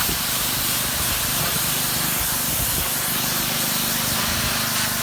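Pressure washer running, its water jet hissing steadily as it blasts old paint off cedar siding, over a steady low motor hum.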